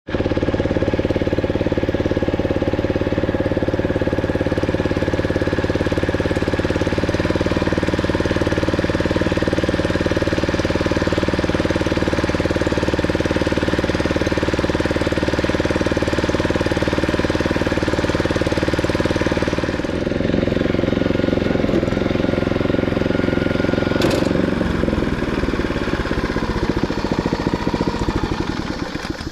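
Vehicle engine running steadily, with an even note for about twenty seconds, then changing pitch and dying away near the end.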